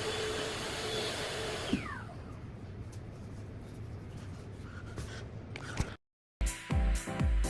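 Vacuum cleaner running with a steady whine, then switched off about two seconds in, its motor winding down in a falling whine, all sped up to double speed. A few light knocks follow, and after a brief silence dance music with a heavy beat starts near the end.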